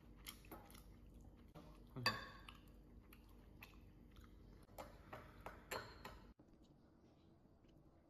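Quiet eating at a table: chewing, with utensils clinking against bowls and dishes a few times, the loudest clink about two seconds in and a few more near five to six seconds. The sounds cut off abruptly a little after six seconds, leaving faint room tone.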